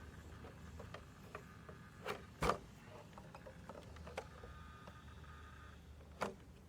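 Scattered light knocks and ticks from jump ramps being handled and set in place, with two louder thuds about two seconds in and another near the end.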